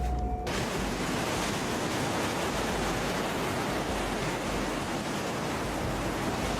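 Steady, even rushing noise of water that cuts in suddenly about half a second in.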